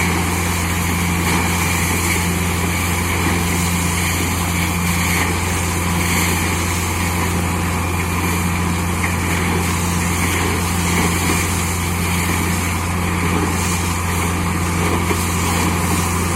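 Borewell drilling rig running steadily, a deep constant engine hum under an even hiss, with no change in pace.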